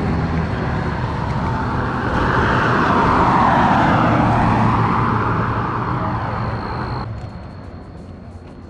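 A vehicle passing close by: its noise swells to a peak about three and a half seconds in and fades, then cuts off abruptly about seven seconds in.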